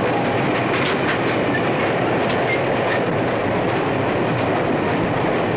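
Freight train running steadily along the rails, with the clickety-clack of the wheels over the rail joints.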